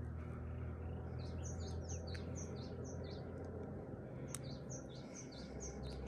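Birds chirping: two runs of short, high chirps, several a second, one starting about a second in and another near the end, over a steady low background hum.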